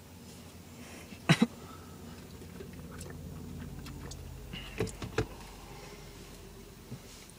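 A low steady hum, swelling a little in the middle, with sharp knocks or clicks: two close together about a second in and two more about five seconds in.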